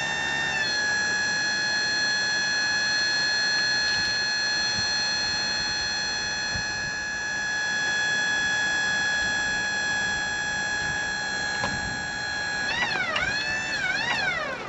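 Wood-Mizer LT40 sawmill's hydraulic pump whining steadily while the log-handling hydraulics lift and turn a birch stump. The pitch wavers at the start and again near the end as the load changes, then falls away as it stops.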